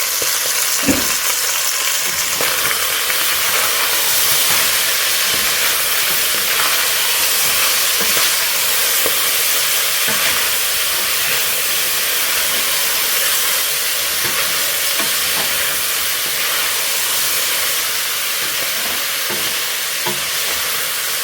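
Chicken pieces and freshly added bell peppers frying in hot oil in a pan: a loud, steady sizzle, with a few light knocks from stirring.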